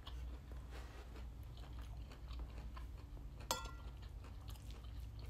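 Close-up chewing of soya mince egg fried rice, with small soft ticks; about three and a half seconds in, a metal spoon clinks once against the ceramic bowl.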